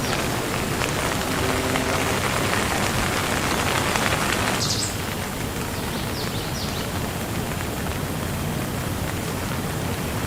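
Steady rain falling, an even hiss of drops. Just under halfway through, a heavier, louder stretch of rain eases off suddenly to a lighter, steady fall.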